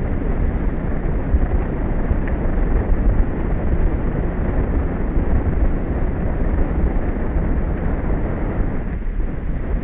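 Wind buffeting an outdoor microphone: a steady, uneven rumble, heaviest in the low end.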